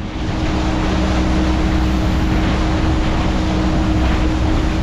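Motorboat engine running steadily while the boat is under way, with a constant rush of wind and water.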